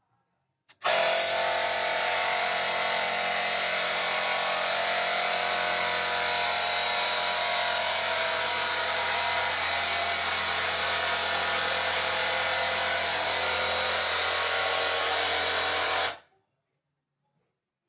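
Portable battery-powered mini air compressor running steadily, starting about a second in and cutting off suddenly near the end.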